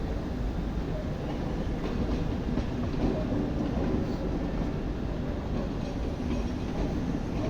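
A moving train: a steady low rumble from its wheels on the rails, with occasional faint clicks.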